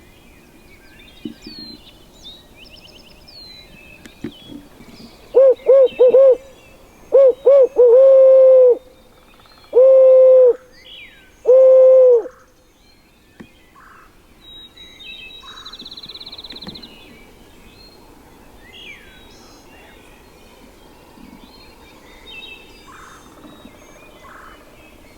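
Series of loud, close owl hoots in the barred owl's rhythm: two quick runs of three short hoots, then longer drawn-out hoots that fall in pitch at the end. This is an owl locator call blown to shock a turkey into gobbling. Small birds chirp faintly in the background.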